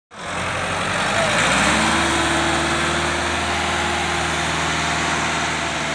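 Tractor engines running steadily, with a wash of background noise.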